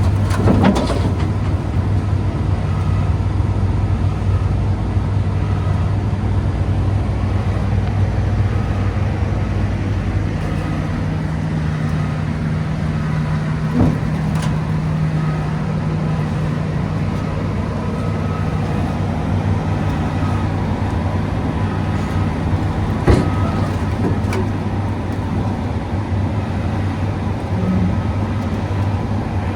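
Excavator's diesel engine running steadily, with a higher engine note held for about ten seconds in the middle as it works under hydraulic load. A few short metallic knocks, the loudest about two-thirds of the way through.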